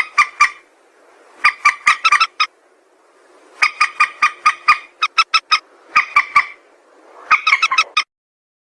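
Call of a mandar sawah, an Indonesian rail: repeated bursts of rapid, sharp notes, five to eight notes per burst, six bursts in all, breaking off suddenly near the end.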